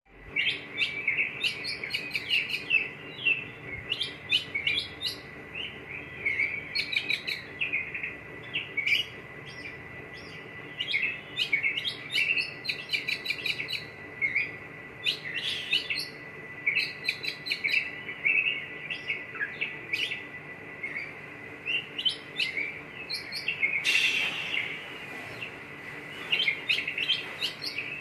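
Oriental magpie-robin (kacer) singing a long, varied song of quick chirps, trills and whistled notes in repeated phrases.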